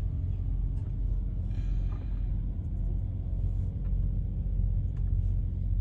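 A diesel truck engine idling: a steady low rumble.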